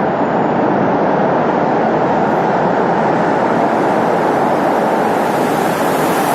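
Steady rush of wind and road noise while riding a motorcycle, heaviest in the low and middle range, growing a little brighter toward the end.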